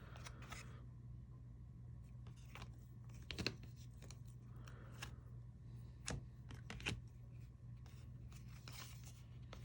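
Faint handling of 2020 Topps Series 1 baseball cards: a few light taps and slides as cards are flipped through one by one, over a low steady hum.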